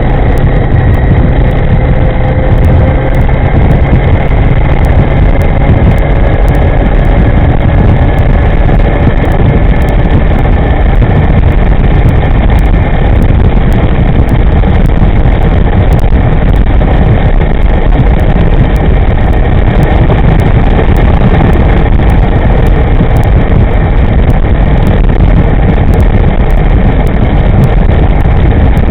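Steady, loud wind rumble on the microphone of a camera riding along on an electric motorbike at speed. Under it is a faint whine that drifts slowly in pitch.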